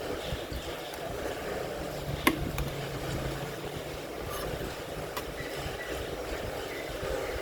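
Steady rain noise, with one sharp click a little over two seconds in, a few fainter ticks, and a low hum for about two seconds in the middle.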